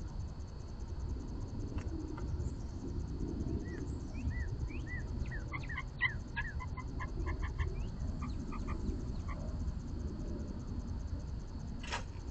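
A wild bird calling in a series of short chirps, curved notes first, then a quick run of clipped repeated notes, over a steady low outdoor rumble.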